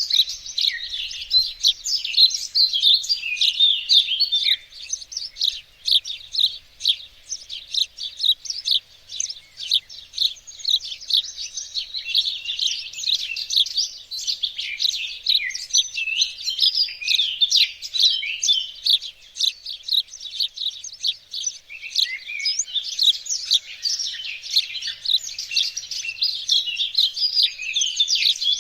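Songbirds chirping and singing without a break, many quick high notes overlapping one another.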